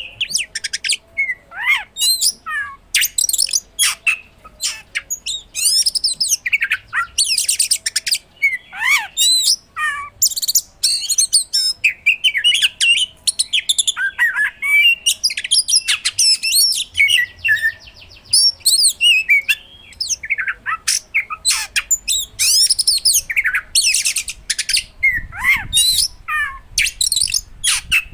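Oriental magpie-robin (kacer) singing vigorously and almost without a break: a rapid run of varied whistles, trills and sharp piercing notes in short phrases, packed with mimicked material, with brief pauses between phrases.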